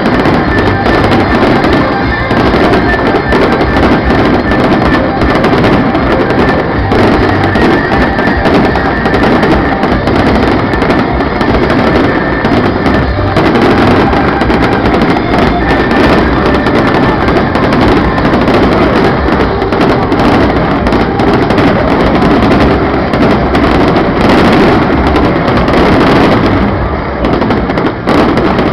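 Fireworks display going off in a dense, continuous barrage of bangs and crackles, loud throughout and easing slightly near the end.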